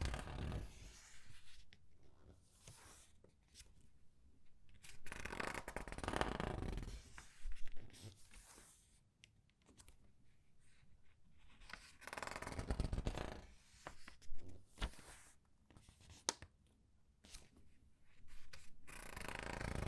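Pages of a thin comic book turned slowly one at a time and squeezed, each turn a papery rustle and crinkle, about every six to seven seconds, with small paper ticks and taps between turns.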